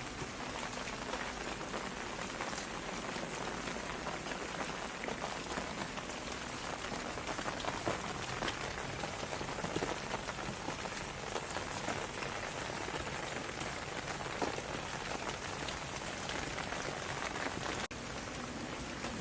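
Steady rain falling, an even hiss with many individual drops ticking through it. There is a momentary break in the sound near the end.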